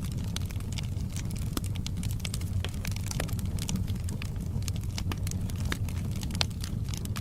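Fire in a fireplace crackling, with many irregular sharp pops over a steady low rumble of the flames.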